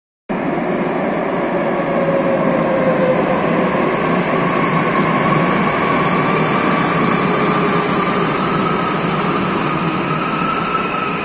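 SFM series 81 electric multiple unit pulling into an underground platform and slowing as it passes: steady rumble of wheels and running gear with a motor whine that slowly rises in pitch.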